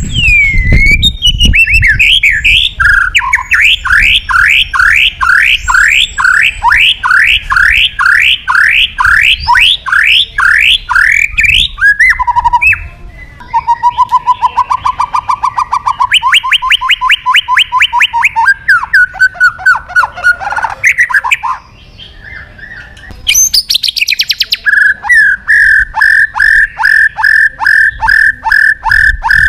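White-rumped shama (murai batu) singing loudly in varied repeated phrases: a long run of falling whistled notes at about two a second, then a fast trill, then a rapid string of notes held on one pitch near the end.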